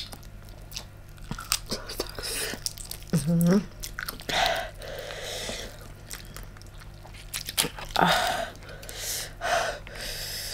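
Close-miked chewing and biting of giant tiger prawn meat, with crunchy bites and mouth sounds in irregular bursts. A brief voiced sound about three seconds in.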